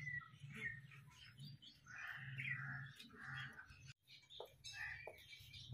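Faint bird chirping and calling over a low steady hum, with a brief dropout about four seconds in.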